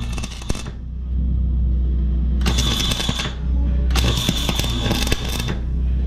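Welding arc crackling in three short bursts of up to about a second and a half each, a short tack-weld run, over background music.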